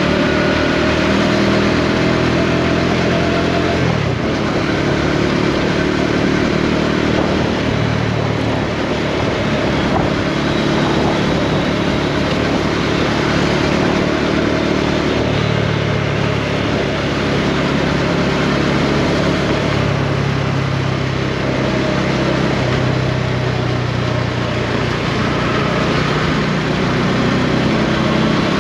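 Bajaj Dominar 400's single-cylinder engine running under way, its pitch climbing for the first few seconds, then dropping abruptly about four seconds in and rising and falling with the throttle after that. A steady rushing noise of wind and road runs beneath it.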